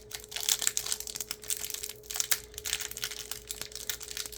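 Crinkling and rustling of a trading card pack's wrapper being handled and opened, with many small irregular crackles.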